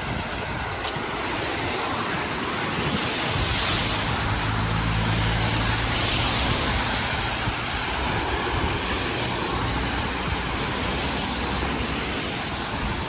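A motor vehicle going past, its engine hum and tyre noise swelling towards the middle and fading again, over a steady rush of wind or water.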